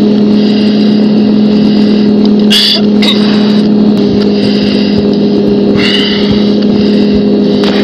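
Loud steady cockpit noise of a CT-114 Tutor jet in flight: the J85 turbojet and rushing air make a constant drone with two steady hums. Two short hissing bursts break in, about two and a half seconds in and again about six seconds in.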